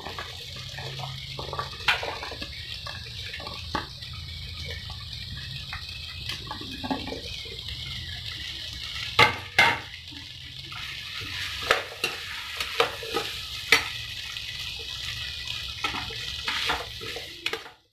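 Chopped vegetables frying in oil in a kadai with a steady sizzle, while a steel ladle stirs them, scraping and knocking against the pan. The sharpest knocks come about nine to ten seconds in.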